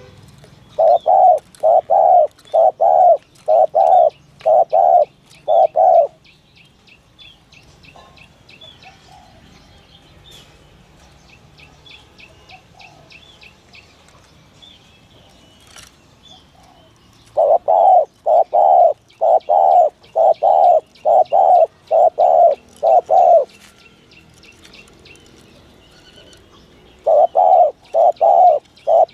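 Spotted dove cooing in runs of about nine quick coos, roughly two a second. There are three bouts with pauses of about ten seconds between them, the last still going at the end. These are the 'thổ thúc gù' calls trappers play to lure doves. Faint chirps of small birds sit behind them.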